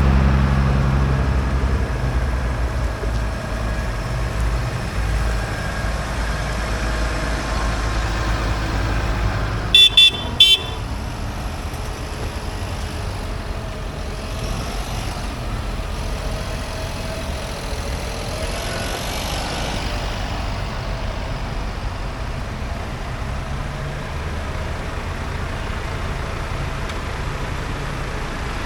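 Tractor engines running, a close one loudest at the start and dropping away within a couple of seconds. About ten seconds in, a vehicle horn gives two short toots.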